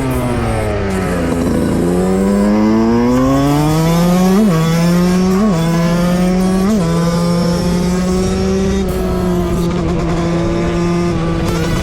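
Two-stroke motorcycle engine being ridden: revs fall for a couple of seconds, then climb, with three brief surges, and settle to a steady high-revving drone through the second half.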